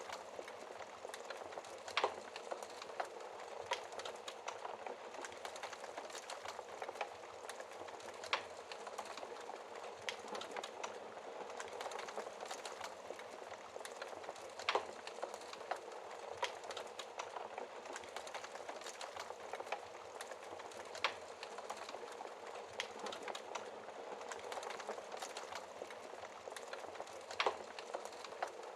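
Wood fire burning in a fireplace, heard through its glass door: a steady hiss with frequent small crackles and a louder sharp pop every several seconds.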